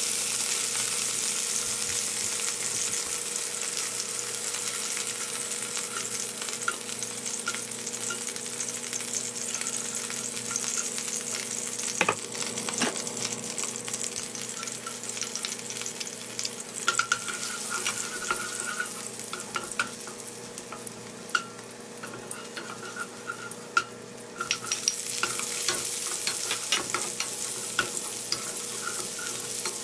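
Chicken pieces sizzling in hot oil in a non-stick wok, turned with tongs, with light clicks of the utensils against the pan. The sizzle dies down for a while. Then it grows louder again a few seconds before chopped onion is seen frying and being stirred with a wooden spatula near the end.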